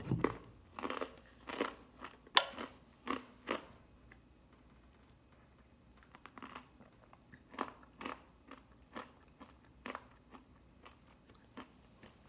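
A person chewing a mouthful of crunchy food: loud, crisp crunches about every half second, a pause of a couple of seconds, then softer crunches at the same pace.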